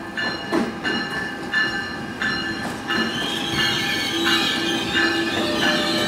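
ALP-46A electric locomotive pulling a commuter train into the platform and passing close by, its bell ringing about one and a half times a second over the rumble of the wheels. A steady squeal from the wheels joins in about halfway through as the locomotive comes alongside.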